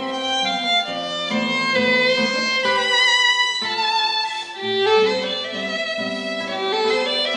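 Chamber orchestra playing, with violins and other bowed strings holding sustained, overlapping notes that shift in pitch every second or so.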